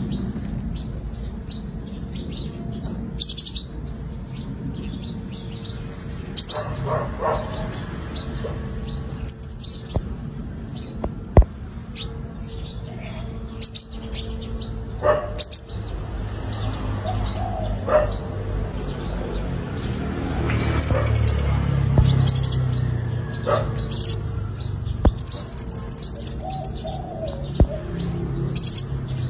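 Sunbird singing: high, thin chirps and short rapid trills, coming in bursts every second or two.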